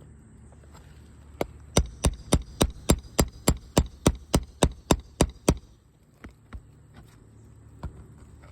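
Roofing hammer tapping in a quick, even run of about fifteen sharp strikes, roughly four a second, starting about a second and a half in and stopping a little after halfway.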